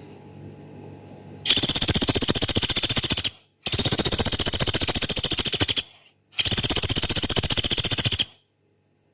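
Small woodpecker known as pelatuk beras giving three long, harsh rattles of very rapid pulses, each about two seconds long, with short breaks between them.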